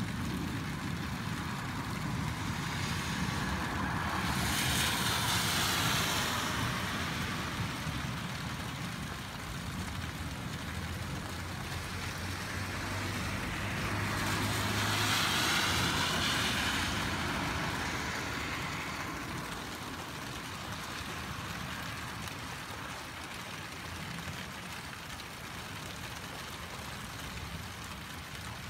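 Steady rain on a wet street, with a vehicle hissing past on the wet road twice, swelling and fading about four seconds in and again around fifteen seconds in, the second with a low engine hum.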